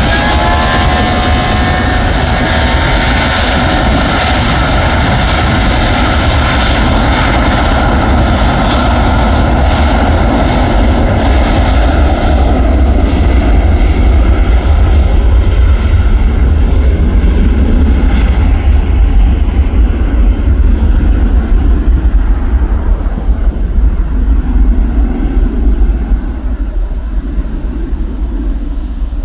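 Airplane engines at takeoff power: a rising whine in the first second, then a loud, steady rumbling noise. Over the second half the sharper high part fades away, leaving mostly the low rumble.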